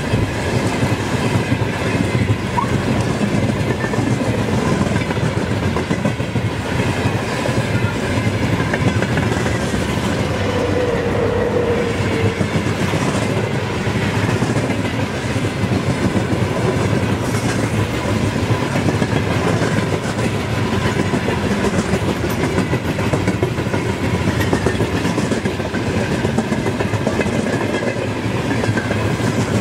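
Freight train's open-top gondola wagons passing close at speed: steel wheels rolling on the rails in a loud, steady rush.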